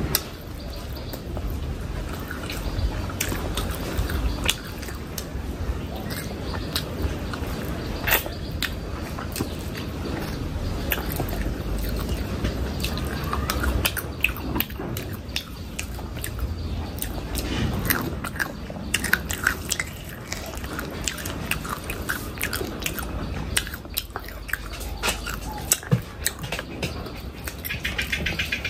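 A person chewing and biting food close to the microphone. Wet mouth sounds are broken by many short clicks all the way through.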